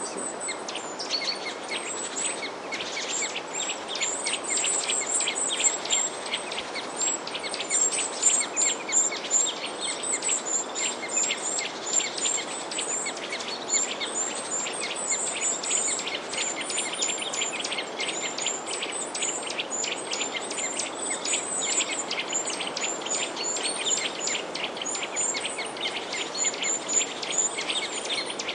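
Many small birds chirping together, a dense run of quick, overlapping high chirps without a break, over a steady background hiss.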